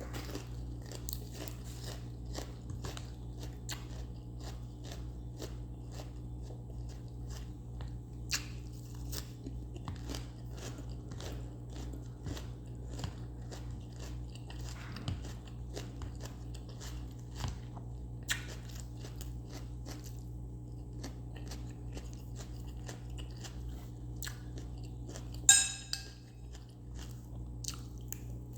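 Close-up chewing and crunching of crisp raw vegetables such as lettuce, a dense run of crisp crunches and wet bites, over a steady low hum. One louder sharp click near the end.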